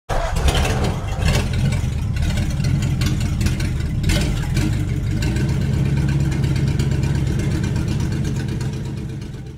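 Car engine sound effect: a deep engine rumble that starts abruptly, runs steadily with a few brief surges and fades out near the end.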